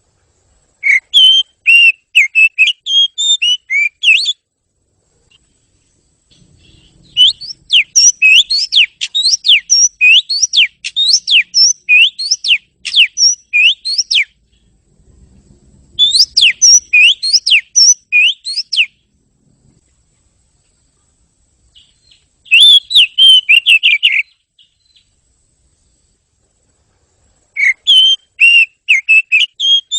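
Oriental magpie-robin (kacer) singing: fast runs of sharp, gliding whistled notes in five phrases a few seconds long, with short pauses between them.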